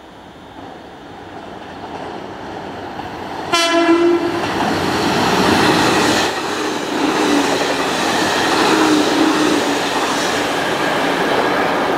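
JR Kyushu 813 series electric train approaching and passing at speed. It gives a short horn blast about three and a half seconds in, followed by the steady rush of the cars going by.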